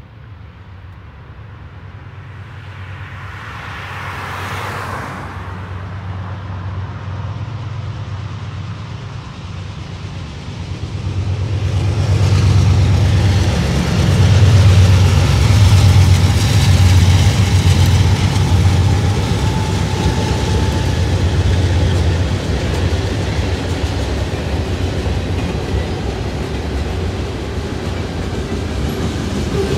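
Two GE B40-8 diesel-electric locomotives leading a freight train past, their diesel engines drumming low and growing louder, loudest from about twelve to twenty seconds in, then giving way to freight cars rolling over the rails. A short swelling whoosh comes about four seconds in.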